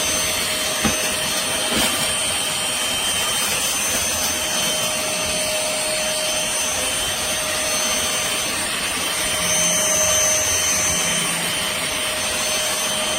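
Trucozie cordless stick vacuum running steadily on its third speed setting: a constant rush of air with a steady high motor whine over it.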